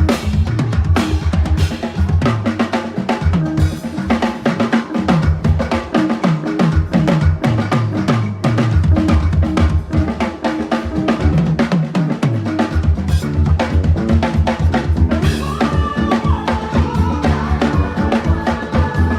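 Drums played fast and busily, bass drum, snare and rimshots, over backing music with a bass line. Held melodic notes come in about three-quarters of the way through.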